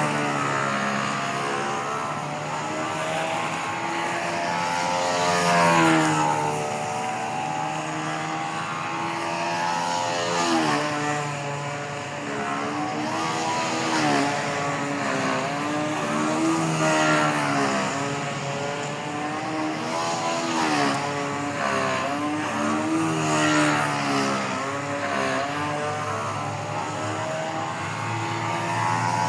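Fora 0.68 nitro engine of a control-line stunt model airplane running continuously, its pitch and loudness swinging up and down every three to four seconds as the plane flies its circles and manoeuvres.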